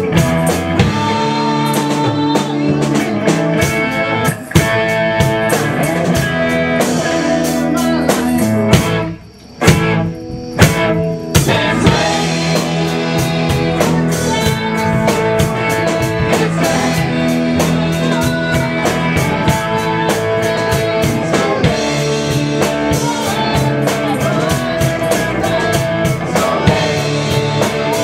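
Rock band playing a song with electric guitar and drum kit. About a third of the way in the band drops out briefly, leaving a few sharp drum hits, then comes back in full.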